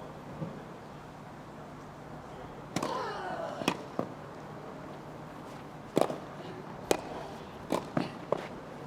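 Tennis rally: a tennis ball struck back and forth by racquets, sharp single hits about a second apart, with a player's grunt on a shot about three seconds in.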